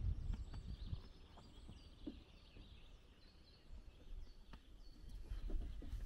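Faint songbirds singing, short high chirping phrases repeated through the middle, over a low rumble on the microphone that is strongest at the start and builds again near the end.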